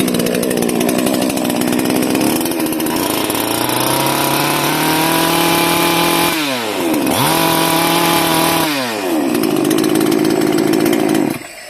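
Four-stroke petrol chainsaw engine running. It revs up, drops back sharply, revs up again, then settles to a lower idle. The engine sound drops away sharply near the end.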